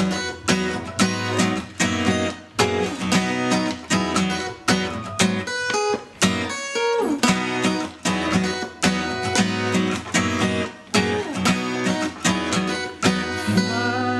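Acoustic guitar strummed in a steady rhythm, about two strokes a second, without singing, settling onto a chord left ringing near the end.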